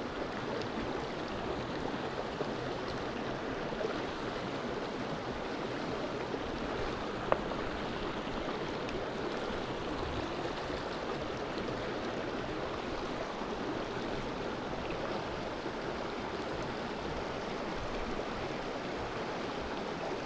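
Small mountain stream flowing and babbling steadily, with a single brief click about seven seconds in.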